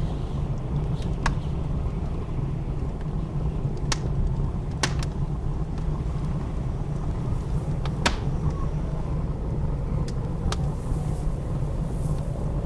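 Wood fire crackling in a fireplace, with sharp pops every second or few, over the steady low rumble of blizzard wind.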